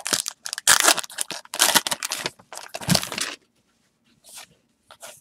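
A foil trading-card pack wrapper being torn open and crinkled: about three and a half seconds of dense crackling rustle, then a few faint, brief brushing sounds.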